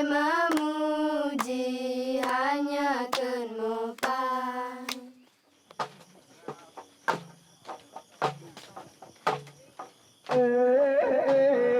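Voices chanting a traditional sewang song in long held notes. After about five seconds the song breaks off into a run of sharp knocks, roughly two a second, and the singing starts again near the end.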